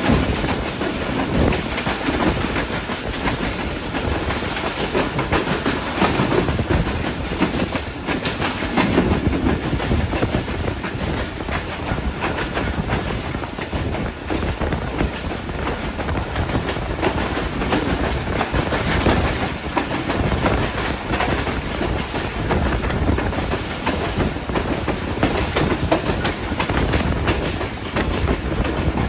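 Passenger train running at speed, its wheels clattering over the rail joints in a steady, dense rush of noise with many short clicks.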